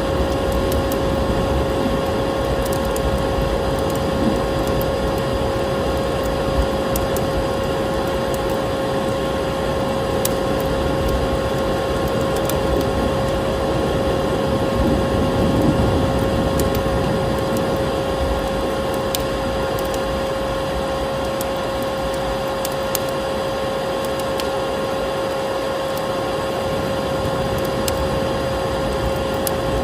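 Electric vacuum cleaner running steadily with a constant motor whine, over a wood fire crackling with scattered sharp pops.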